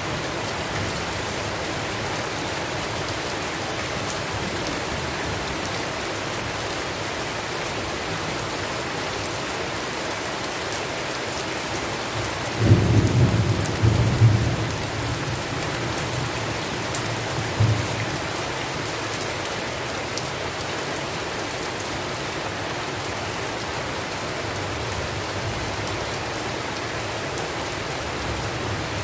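Steady heavy rain falling, with a rumble of thunder breaking in suddenly about halfway through and fading over a couple of seconds, then a smaller rumble a few seconds later.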